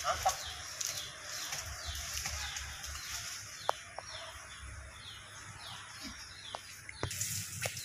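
A bird calling repeatedly: short falling notes about twice a second, over a faint steady high-pitched whine, with a few light clicks.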